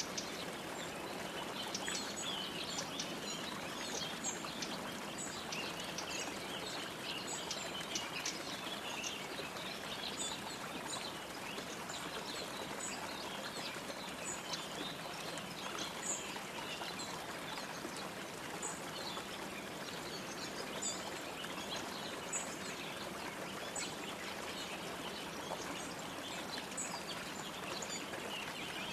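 Birds chirping and twittering in many short, high calls over a steady rush of running water.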